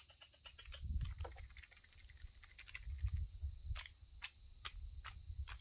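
Faint, sharp clicks and ticks: a quick cluster early on, then a regular series of about two a second in the second half. Under them runs a steady high insect drone, crickets.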